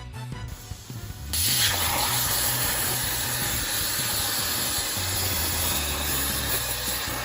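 Plasma cutter (Longwell CUT 100) on a CNC table cutting metal: a loud, steady hiss of the plasma arc and air jet that starts faintly, then comes in full about a second in, over background music with a low bass line.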